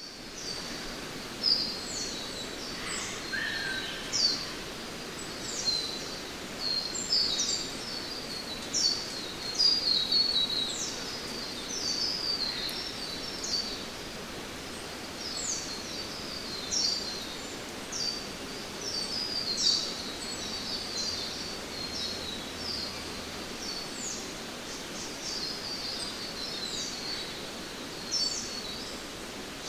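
Rainforest ambience: many birds calling over and over in short, high chirps and whistles above a steady background hiss.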